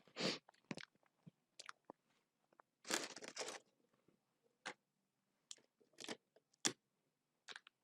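Close-up eating sounds of a person chewing and biting into red velvet cake: scattered short mouth clicks and smacks, with a longer chewing burst about three seconds in.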